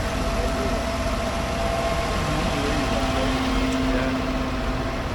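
Tractor engines running steadily, a low rumble with a steady hum that sets in about halfway through.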